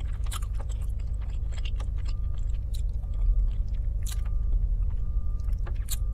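Close-up chewing of a mouthful of chicken Alfredo pasta, with wet mouth clicks, and a metal fork clicking and scraping against the plate as more pasta and shrimp is gathered, the sharpest clicks about four and six seconds in. A steady low hum runs underneath.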